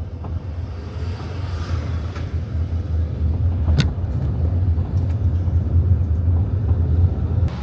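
Steady low engine rumble of a motor vehicle, with a single sharp click about four seconds in; the rumble stops abruptly near the end.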